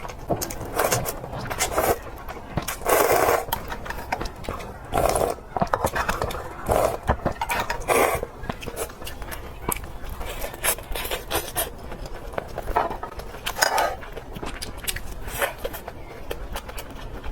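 Close-miked eating sounds: chewing and mouth noises with frequent sharp clicks of utensils against dishes, and several louder bursts spread through.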